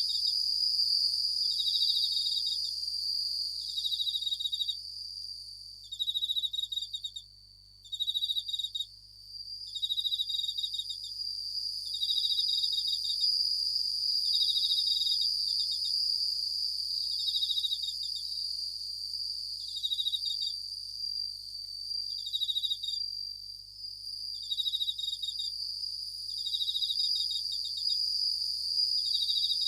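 Japanese bell crickets (suzumushi) singing: short pulsed ringing trills repeated about every one and a half to two seconds, over a continuous high insect trill. The song drops away briefly about seven seconds in, then resumes.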